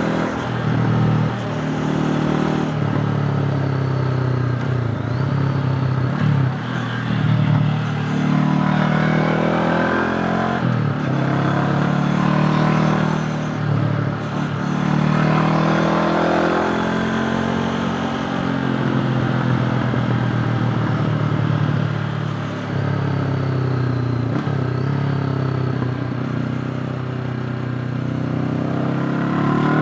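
Honda CB500X motorcycle's parallel-twin engine under way, its pitch climbing and dropping again and again as the throttle is opened and eased off, with rising revs about nine seconds in, around fifteen seconds, and again near the end.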